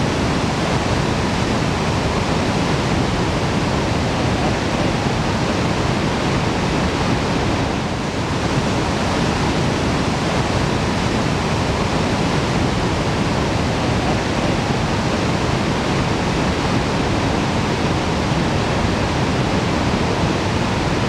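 Barron Falls in full flood after record rain: a large volume of water thundering down the gorge as a loud, steady, even rush.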